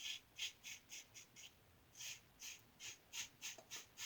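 Short, quick strokes of a 3D-printed injector-style razor with a Schick injector blade scraping across lathered stubble, about three a second, in two runs with a brief pause between.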